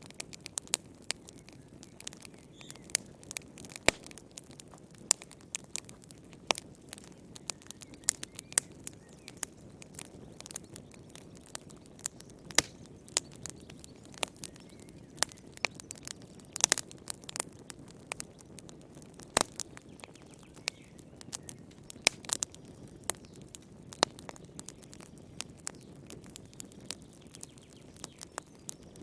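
Wood campfire crackling: frequent irregular sharp pops and snaps, a few louder ones, over a steady low rush of burning flame.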